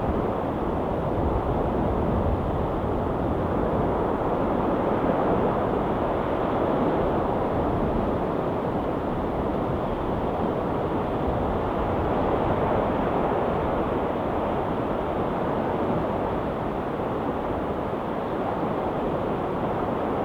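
Ocean surf washing in a steady roar of noise, swelling and easing slowly without any single crash standing out.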